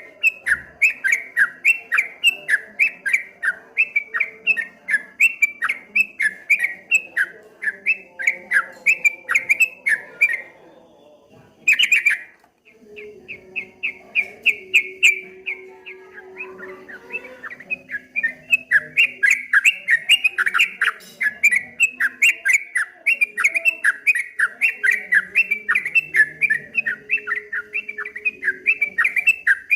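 Yellow-vented bulbul (trucuk) singing a fast run of short, repeated chirping notes, about three or four a second. The run breaks off for about two seconds roughly a third of the way in, then resumes.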